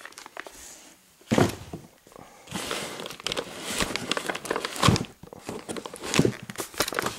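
Fireworks cakes and their packaging being handled: irregular rustling and crinkling with several sharp knocks, the loudest about one and a half seconds and five seconds in.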